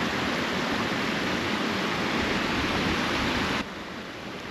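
Steady rush of a mountain stream tumbling down from a waterfall, which drops suddenly to a quieter rush about three and a half seconds in.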